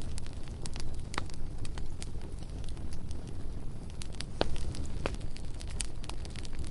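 Bonfire crackling: irregular sharp pops and snaps, several a second, over a steady low rumble.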